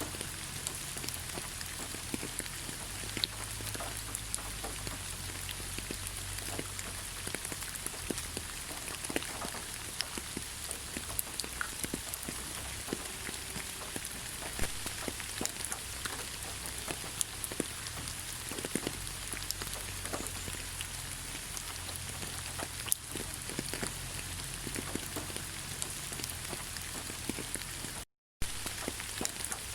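Steady rain falling in a forest, an even hiss with many separate drops ticking close by. The sound drops out completely for an instant near the end.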